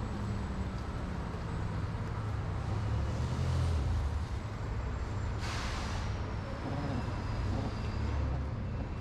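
Road traffic and a steady low wind rumble heard from a bicycle moving along a city street, with a short, loud hiss about five and a half seconds in.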